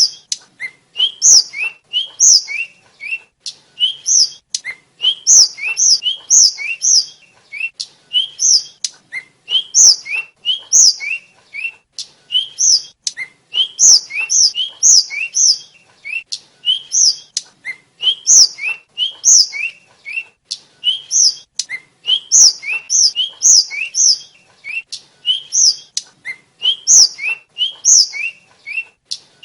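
Tledekan (sulingan) flycatcher singing: short, high, whistled notes in quick pairs, a lower rising note followed by a higher one, repeated over and over with hardly a pause, with sharp clicks in between.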